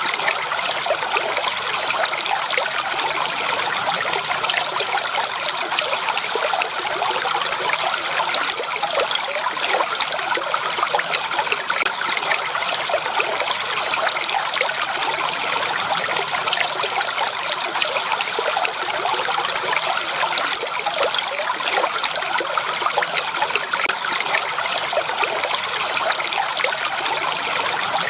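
Stream water flowing and trickling over stones, with a steady busy babble of small splashes.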